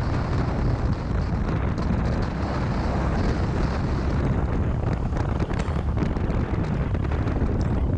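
Motorcycle on the move: steady wind rush buffeting the microphone over the low running of the engine.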